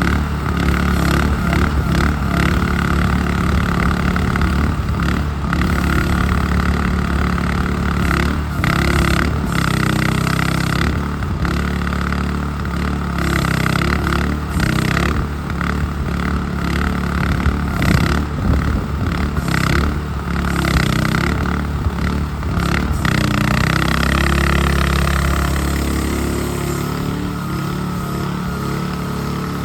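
The RATO 420cc single-cylinder gas engine of a mini hydraulic excavator running hard, its pitch dipping and recovering under changing load, with frequent short knocks. Near the end it settles to a lower, steadier note.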